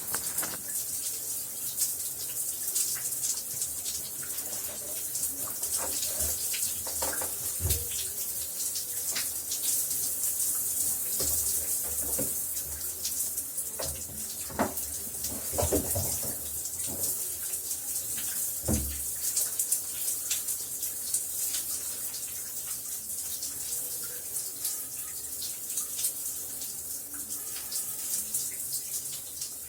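Shower running: a steady hiss of falling spray, with scattered splashes of water hitting below, a few of them heavier.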